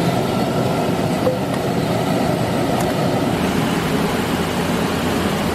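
Steady rushing roar of a waterfall, an even, unbroken wash of water noise.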